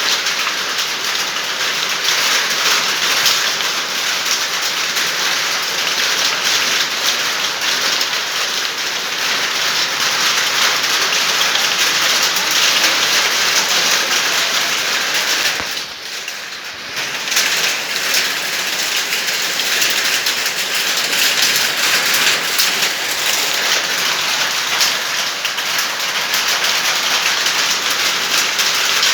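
Rain falling steadily, the drops hitting the ground. It briefly dips in level a little over halfway through.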